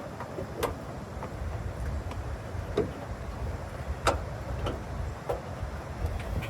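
Scattered light clicks and taps of car parts being handled and fitted by hand, about six in all, the sharpest about four seconds in, over a low steady rumble.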